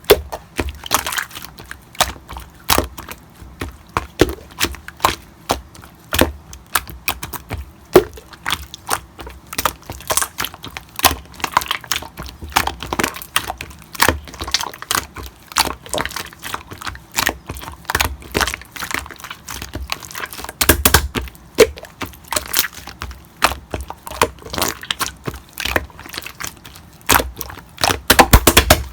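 Slime being squished, pressed and folded by hand, giving off a rapid, irregular stream of sharp clicks and pops, louder in clusters about two-thirds of the way through and near the end.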